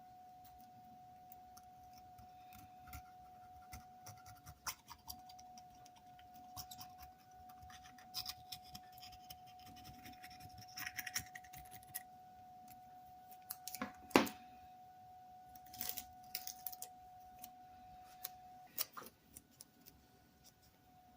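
Hand work on wooden hammer handles in a workshop: scattered scrapes and clicks, with one sharp knock about 14 seconds in. A faint steady whine runs underneath and stops near the end.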